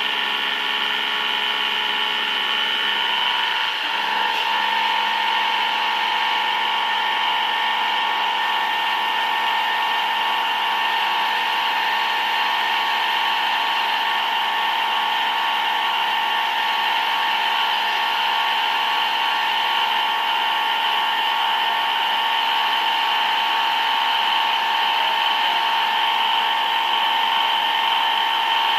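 CNC machine tool running with a steady high whine made of several held tones. A stronger tone sets in about four seconds in.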